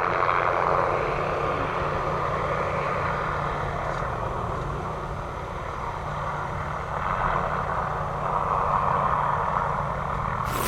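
MD500D helicopter's Allison turboshaft and rotors running steadily, a continuous rush with a low drone underneath. Just before the end the sound cuts abruptly to a louder, brighter rush.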